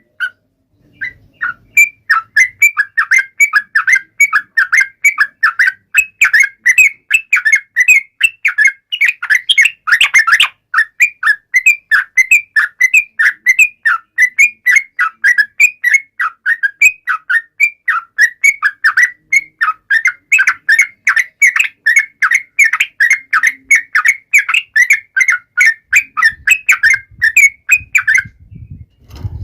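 Yellow-vented bulbul (trucuk) singing: a rapid, unbroken run of short chirps at several a second. It starts after a brief pause and breaks off about a second before the end.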